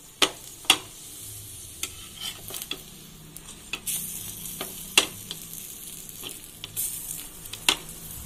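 Cheese paratha shallow-frying in oil on a tawa, a steady sizzle. Now and then a steel spatula pressing and turning it taps or scrapes sharply against the pan, about half a dozen times.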